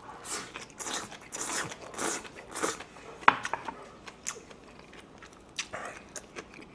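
Chewing a mouthful of rice with gobdeulbaegi kimchi, strongest in the first three seconds and then tapering to sparse faint sounds. A single sharp click about three seconds in.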